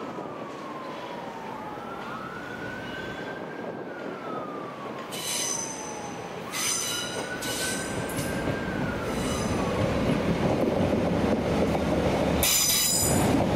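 A train running in on the rails, its rumble growing louder from about eight seconds in, with short high-pitched wheel squeals four times. Through the first part a siren wails in the background, rising and slowly falling about every three and a half seconds.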